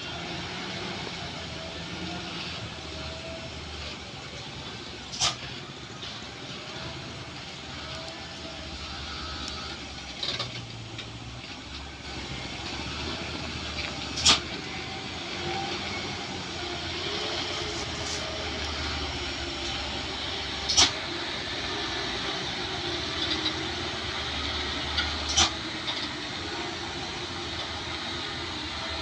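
Truck engine running steadily, with four short, sharp knocks at irregular intervals over it.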